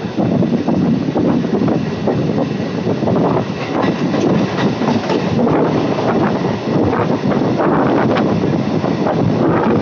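Electric multiple unit local train running on the track, heard from an open coach window: a steady loud rumble of wheels on rails with a dense run of clicks over the rail joints, while it passes close alongside a line of passenger coaches on the next track.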